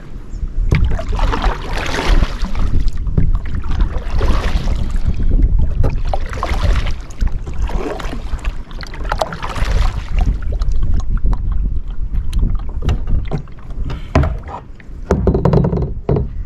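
Kayak paddle strokes: a swoosh and splash of the blade in the water about every two and a half seconds, over a low rumble of wind on the microphone.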